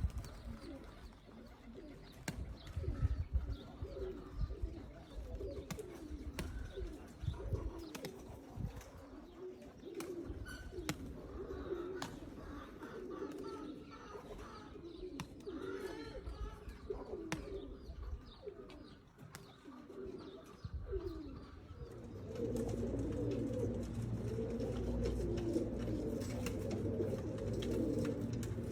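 Domestic Qatif pigeons cooing, several birds at once, with scattered sharp clicks. About three-quarters of the way through, the cooing becomes louder and denser over a low hum.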